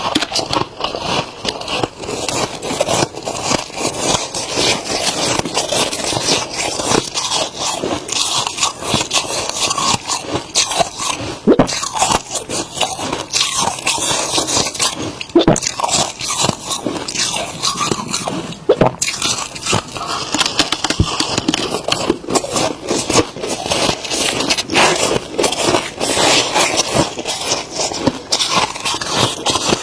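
Humidifier-grown freezer frost being bitten and chewed close to the microphone: dense, crisp crunching mixed with scraping.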